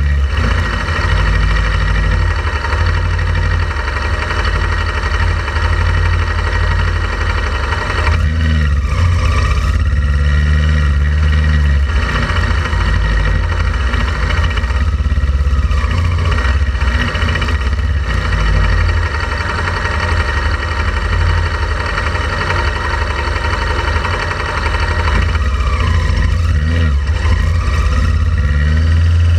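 Honda Transalp XL700V motorcycle's V-twin engine running on the move, its pitch rising and falling a few times as the throttle changes, over a heavy low rumble.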